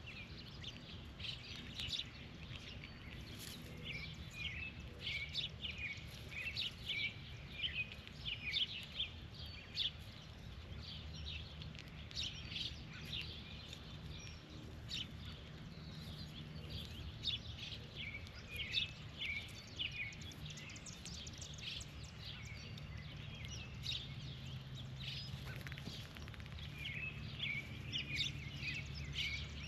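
Small birds chirping in quick short calls, many overlapping throughout, over a steady low background hum.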